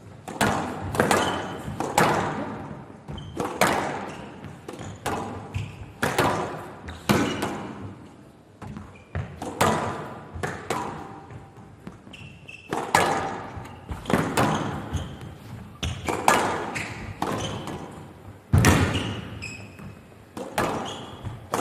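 A long squash rally: the rubber ball cracking off rackets and the walls about once a second, each hit echoing in the court, with occasional short shoe squeaks on the floor.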